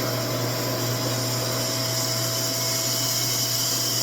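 RevAir reverse-air hair dryer running steadily: a constant rush of air with a steady motor tone, its suction wand drawing in a section of textured hair to dry and straighten it.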